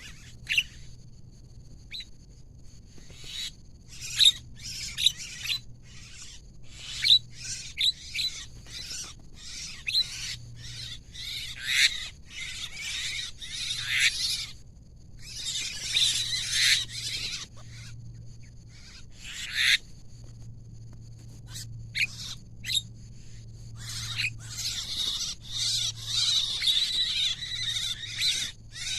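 Javan mynas (jalak kebo) calling, in many short bursts of calls with longer unbroken runs around the middle and near the end.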